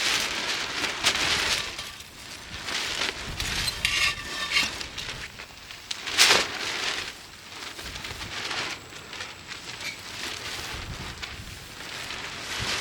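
Wood campfire crackling and hissing with many small pops, and one sharper crack about six seconds in.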